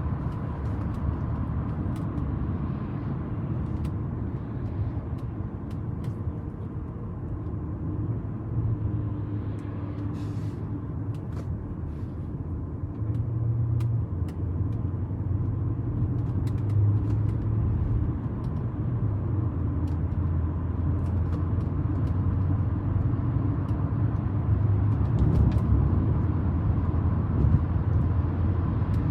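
1998 Audi A8 being driven: a steady low engine and road rumble with scattered light clicks, growing somewhat louder in the second half.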